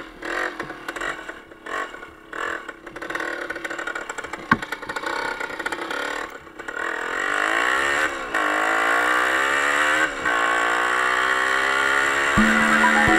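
Small off-road motorcycle or ATV engine revving: after a choppy, rattling stretch, its pitch climbs, drops back and climbs again, then holds at a steady high speed.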